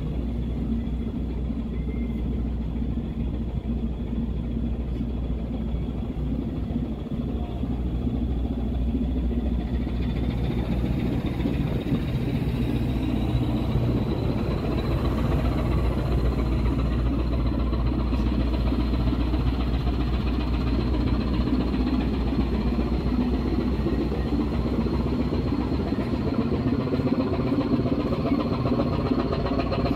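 A ship's engine runs steadily with a deep rumble and a thin, steady high whine. It grows a little louder and rougher about ten seconds in.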